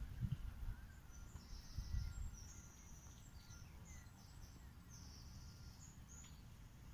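Faint outdoor ambience: scattered short, high-pitched bird chirps over a low rumble that fades after the first second or two.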